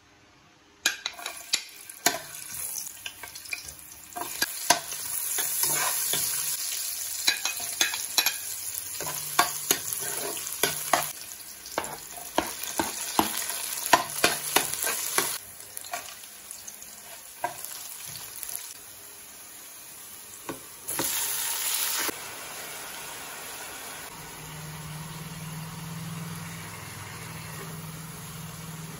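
Chopped onion, garlic and chilies frying in hot oil in a metal cooking pot, sizzling, with a metal spoon stirring and clicking sharply against the pot. In the second half the sizzle settles to a quieter, steadier hiss, with a brief louder hiss about two-thirds through.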